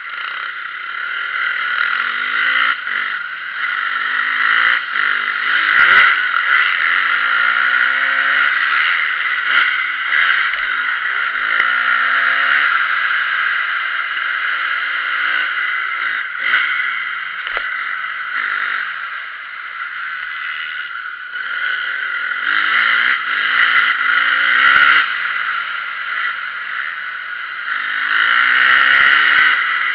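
Motocross bike engine running hard, its pitch repeatedly climbing as it revs and then dropping as the rider shifts or backs off, over a steady hiss.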